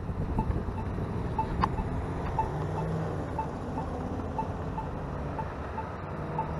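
Crosswalk pedestrian signal beeping about once a second while waiting to cross: the accessible push-button locator tone. Road traffic and a low engine hum run underneath.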